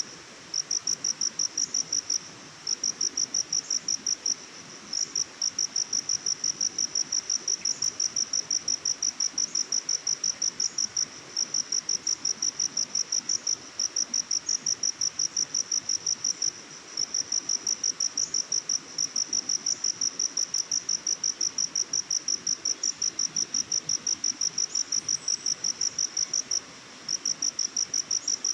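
An insect chirping in a steady, high-pitched, rapidly pulsed trill, broken by short pauses every few seconds, over a faint background hiss.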